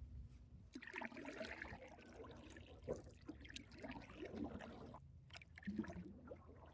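Faint water trickling and dripping, with small scattered knocks and handling noises.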